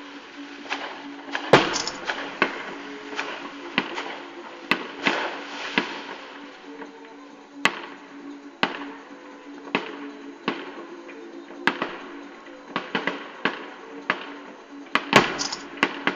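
Fireworks going off in an irregular series of sharp bangs and cracks, the loudest about a second and a half in and a cluster near the end, over a steady low hum.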